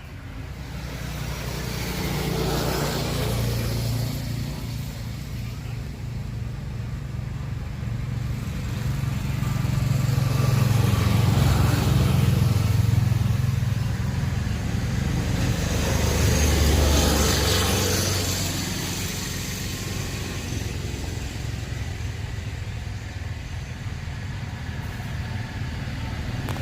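Motor vehicles going past, engine noise swelling and fading several times, loudest in the middle.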